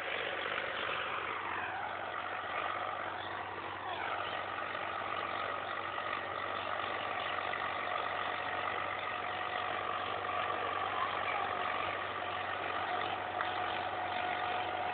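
Agri King tractor engine running; its pitch slides down over the first couple of seconds, drops again about four seconds in, then holds steady.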